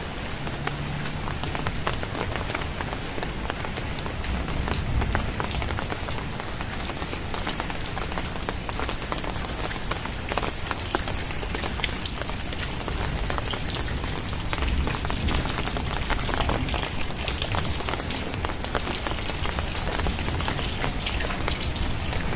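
Very heavy rain falling steadily, a dense hiss with many close drop impacts.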